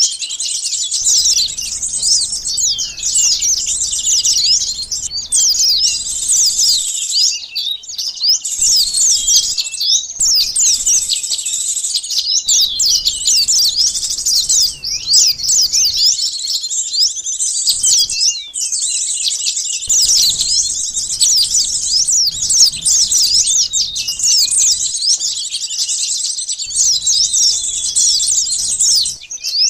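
Dense chorus of many small songbirds such as sunbirds, chirping and twittering at once in quick high calls that overlap without pause.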